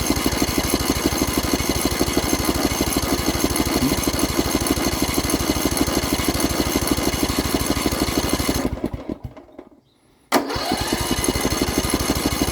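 Poulan Pro mower engine being turned over by its electric starter on choke, an even fast chugging that does not catch. The cranking stops for about a second and a half, then there is a sharp click and the cranking starts again.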